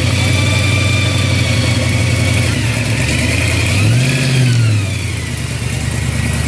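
Supercharged 302 small-block V8 of a 1969 Camaro Z28 idling as the car creeps forward, with the blower giving a high whine. About four seconds in the engine is blipped once, and its pitch and the whine rise and fall back within about a second.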